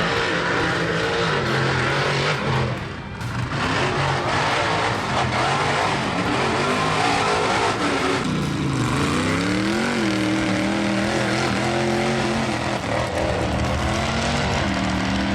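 Mega mud truck engine at full throttle, revving hard with a noisy wash over it. About eight seconds in the engine note sags, then climbs back up and holds high.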